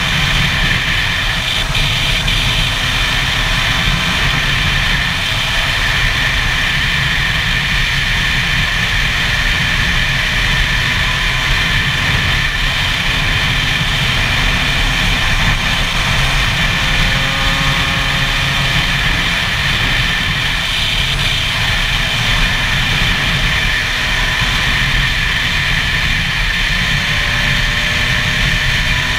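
Two-stroke single-cylinder engine of a 2009 Gas Gas EC SMR 125 supermoto running at a steady road speed, with wind rumbling on the helmet-mounted microphone.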